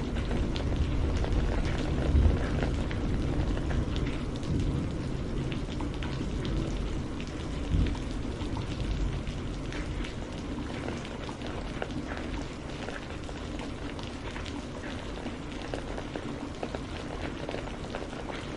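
Steady rain falling, an even hiss with individual drops ticking through it. A low rumble sits under it in the first half and dies away.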